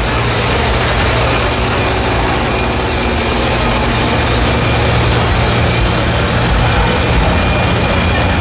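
A heavy pulling-vehicle engine running loud and steady, with a strong low drone and no clear revving.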